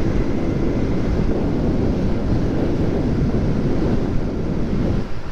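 Motorcycle riding at speed: steady wind rushing over the camera microphone, with the bike's engine and road noise underneath.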